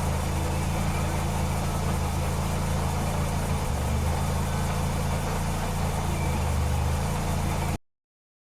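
Mitsubishi Celeste's four-cylinder engine idling steadily, cutting off abruptly near the end.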